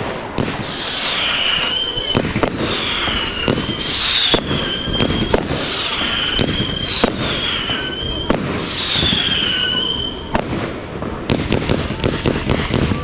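Fireworks display with whistling fireworks: about six shrill whistles, each falling in pitch and then holding, over repeated bangs. Near the end comes a quick run of sharp cracks.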